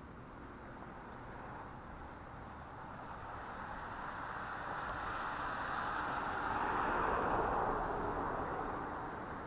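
A vehicle passing by: a steady rush of tyre and road noise that swells to a peak about seven seconds in, then fades away.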